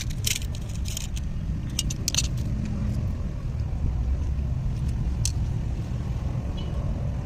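A steady low rumble, with several sharp clinks in the first two and a half seconds and one more about five seconds in.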